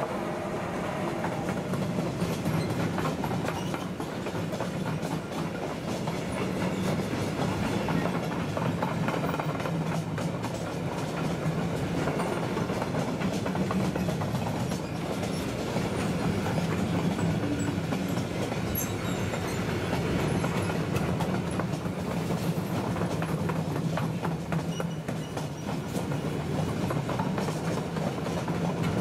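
Freight train of covered sliding-wall box wagons rolling past at speed. It makes a steady rumble of steel wheels on rails, with continuous clickety-clack as the wheels cross rail joints.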